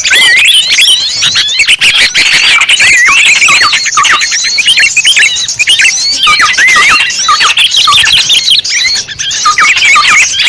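Bird-lure recording for small birds: a loud, dense chorus of many small birds chirping and twittering over one another without a break.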